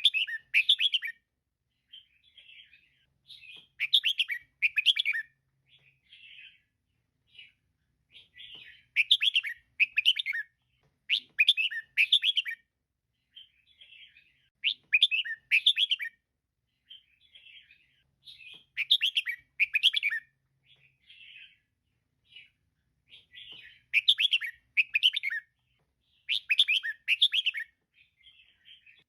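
Female red-whiskered bulbul calling: short chattering phrases of two or three loud notes, repeated every few seconds, with softer single calls between them.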